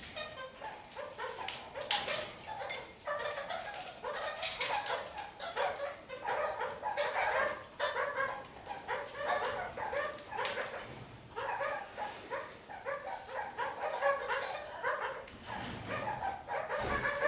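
Red-crowned kakariki (parakeets) chattering and calling without a break, a dense run of short, quick calls, with a few sharp clicks mixed in.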